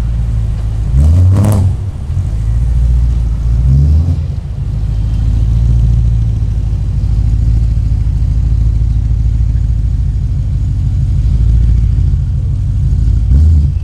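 Sports car engines idling in slow traffic with a deep, steady rumble. Brief revs rise and fall about a second in, again near four seconds, and once more just before the end.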